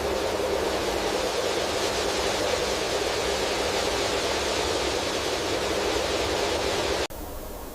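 Steady rushing noise that cuts off suddenly near the end, giving way to quieter outdoor ambience.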